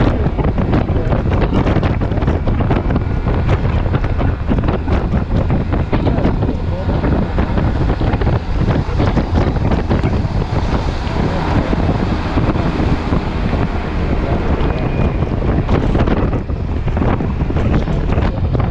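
Heavy wind buffeting the microphone on a Yamaha T-Max 530 maxi-scooter being ridden in heavy rain, with the hiss of rain and road spray mixed in. A loud, steady, rough rush throughout.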